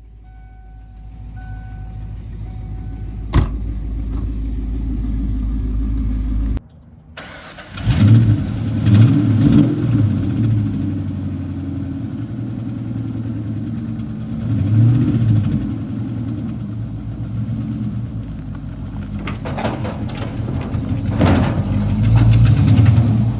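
A car engine running and revved several times, the loudness swelling and falling with each rev. Before it, a low hum builds steadily for about six seconds, then the sound drops out briefly.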